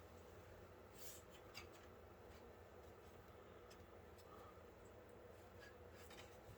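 Near silence: faint room tone with a few soft clicks of parts being handled, about a second in, again half a second later, and near the end.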